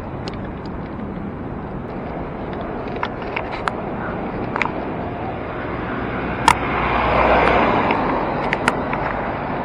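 Street traffic and wind rush heard from a moving bicycle: a steady noise that swells louder about seven seconds in, with scattered sharp clicks and ticks.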